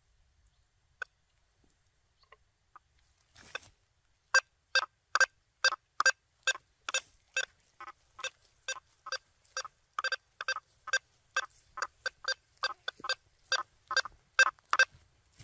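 Quest V80 metal detector with a 9-inch coil giving its audio target response: after a few faint blips, a fast run of short, identical beeps, about two to three a second, starting about four seconds in, as the coil passes back and forth over a nail-board separation test.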